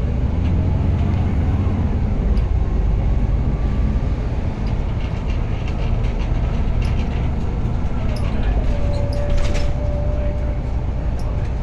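Inside a vehicle on a bumpy ride: a steady low running rumble with scattered knocks and rattles. A thin whine glides in pitch early on, then holds steady for about two seconds near the end. This whine is likely the strange sound noticed on R2823.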